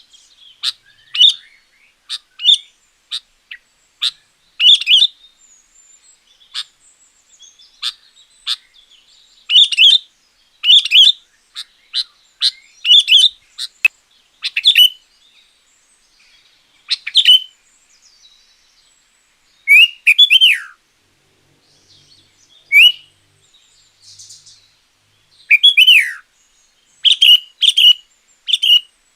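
Sooty-headed bulbul singing: loud, clipped chirps and short whistled phrases repeating every second or two, with silent gaps between. Twice, near the middle and again later, the song drops into a falling slurred note.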